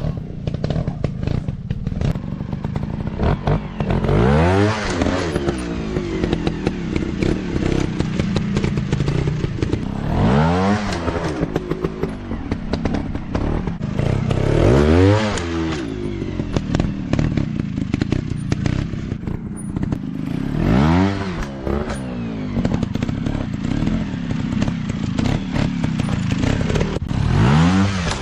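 Dirt bike engines running hard, their pitch rising and falling about every five or six seconds as the throttle is opened and closed, with clattering and scraping of the bikes over rough ground.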